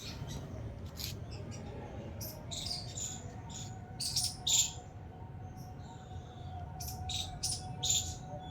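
Small birds chirping: short, high chirps scattered irregularly, loudest about four seconds in and again near the end, over a steady low hum.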